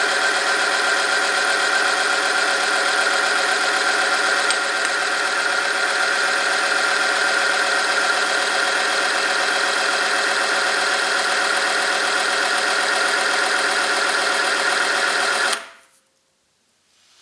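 Oil-film strength test machine running with 5W30 engine oil at 100°C: a loud, steady mechanical whine of the motor-driven shaft rubbing against the test sample, which cuts off abruptly near the end.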